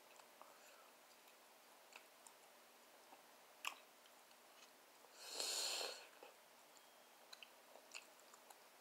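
Close mouth sounds of a person chewing fried barbecue ribs: soft wet clicks and smacks, with a sharper click about a third of the way in. A little past halfway there is a louder, noisier sound lasting about a second.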